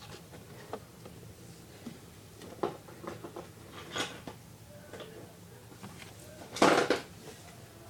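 Small plastic toy pieces being handled, giving scattered light clicks and knocks, with one louder clatter of about a third of a second about two-thirds of the way in.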